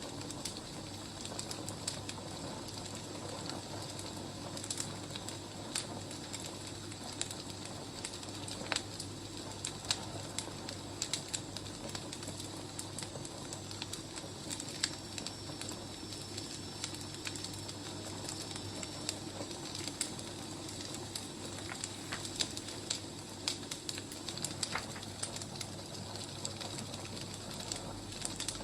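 Wood fire crackling, irregular sharp snaps and pops over a steady hiss. Midway a faint, thin, high whistle holds for a few seconds.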